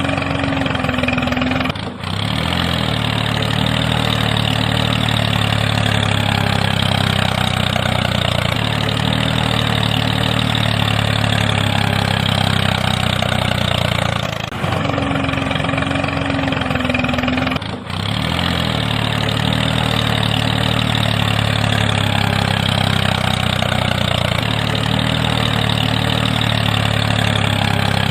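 Tractor engine idling steadily, the same stretch of sound repeating about every sixteen seconds, with short dips in level about two seconds in and again near the middle.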